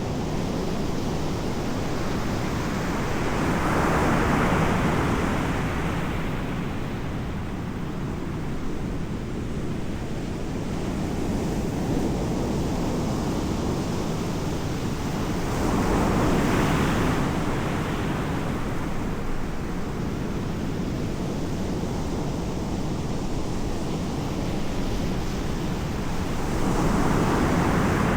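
Ocean waves breaking, three surges about twelve seconds apart, over a steady rumble of wind on the microphone.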